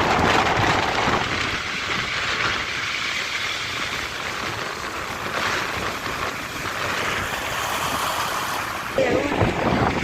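Steady rushing of wind on the microphone over sea surf, in light rain, with stronger gusts about nine seconds in.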